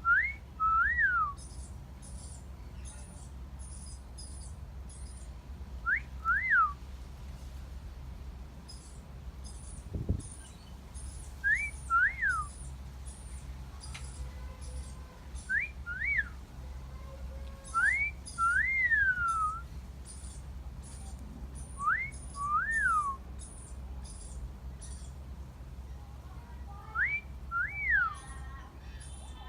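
A two-note wolf whistle, a short rising note followed by a longer rising-and-falling one, repeated seven times at intervals of about four to six seconds.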